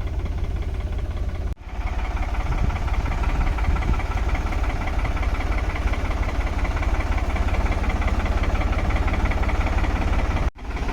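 Tractor engine running steadily with a fast, even low pulsing. The sound drops out abruptly for a moment twice.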